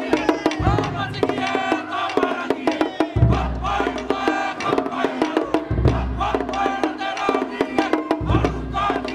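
A Pacific Island performance group singing together over fast wooden percussion, with a deep drum hit about every two and a half seconds.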